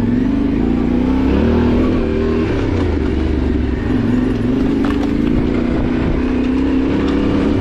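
Yamaha Ténéré 700's parallel-twin engine running steadily as the motorcycle is ridden off-road, its revs rising and falling gently.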